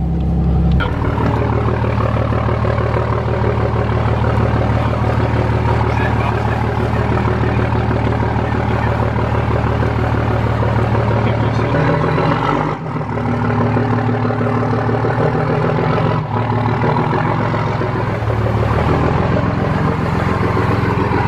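Cummins diesel pickup engine running steadily under load while towing another truck, with two brief dips in the sound about 13 and 16 seconds in.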